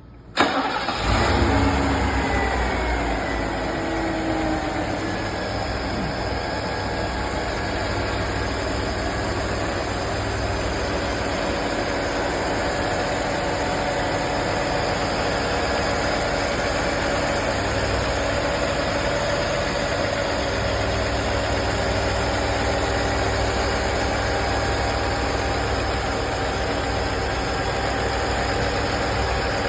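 1986 Mercedes-Benz 560SL's V8 engine cold-starting after sitting for a week. It fires about half a second in, its speed falls over the first few seconds, and it settles into a steady idle.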